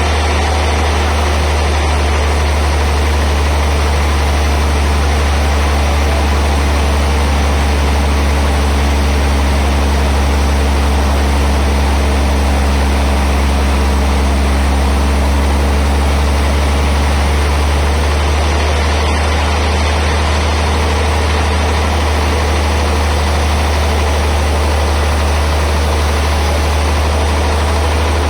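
Sawmill band saw machinery running steadily with a loud low hum. A set of fainter steady tones joins in for a while in the middle, then fades out.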